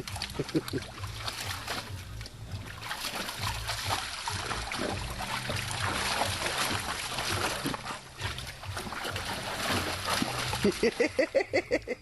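A dog splashing and sloshing water in its pool. Near the end the dog gives a quick run of short vocal sounds.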